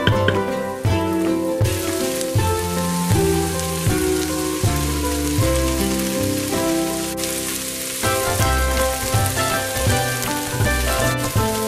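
Rice, onion and black-eyed peas sizzling in olive oil in an Instant Pot's stainless steel inner pot, under background music with changing notes.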